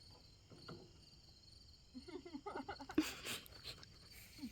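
Crickets chirping steadily and faintly, with a few sharp clicks and quiet murmured voices about two to three seconds in.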